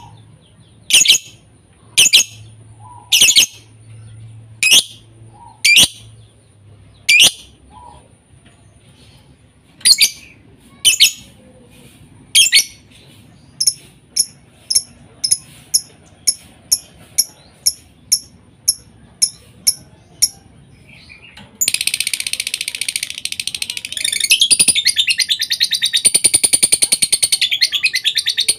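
Lovebird calls used as a bait track to set another lovebird singing. Loud, shrill single calls come about once a second, then quicker short chirps about two a second, and about three-quarters of the way through they give way to a dense, continuous high chattering trill.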